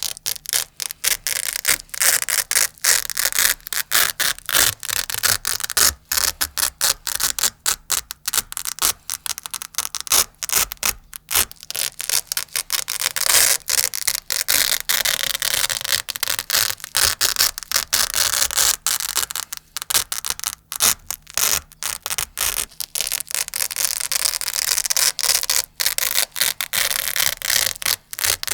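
Velcro hook-and-loop fastener being ripped apart and rubbed close to the microphone: a rapid run of crunchy, scratchy rips with short gaps between, several a second.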